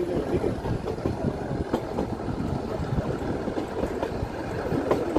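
Nilgiri Mountain Railway passenger carriage running along the track, a steady rumble of wheels on rail heard at an open doorway, with a few sharp clicks and knocks.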